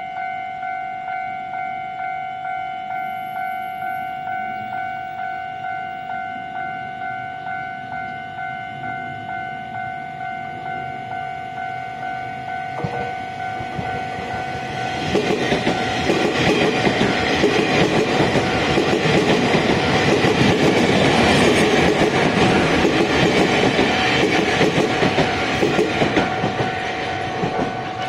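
Level-crossing warning bell ringing steadily, about two strokes a second, while a Taiwan Railways EMU800 commuter train passes through the crossing from about halfway in, its wheel and rail noise building and then covering the bell until near the end.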